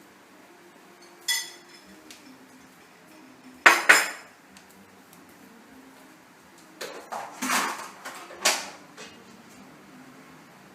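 A few sharp clatters and clinks of hard objects. One short ringing clink comes about a second in, the loudest clatter comes a little before the middle, and several more follow near the end.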